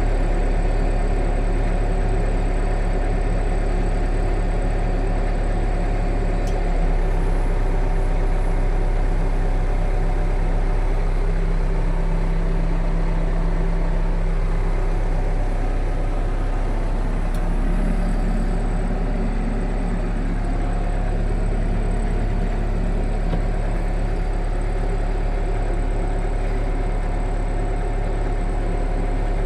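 Heavy construction machine's engine running steadily with a deep low rumble. Its pitch shifts slightly about a third of the way in and again a little past halfway.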